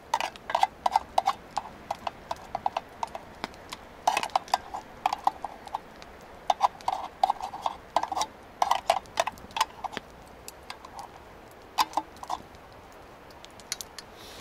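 A metal spoon clinking and scraping against a tin can: quick clusters of sharp, ringing clinks with short pauses between them.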